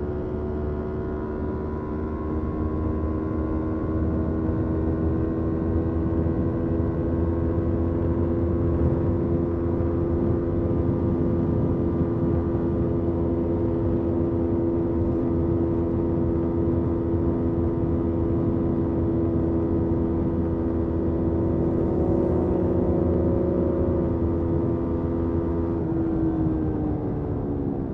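Motorcycle engine running under way at a steady speed, its note rising a little over the first few seconds, holding steady, then dropping near the end as the throttle eases off, over a low rumble of wind and road noise.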